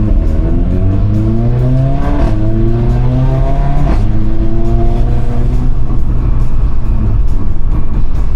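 Car engine accelerating through the gears: its pitch climbs, drops back at a shift about two seconds in and again about four seconds in, then holds steady.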